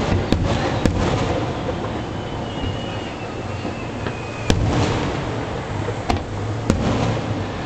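Aerial firework shells bursting in a display: five sharp bangs, the loudest about halfway through. Each bang trails off in a rolling echo over a steady low rumble.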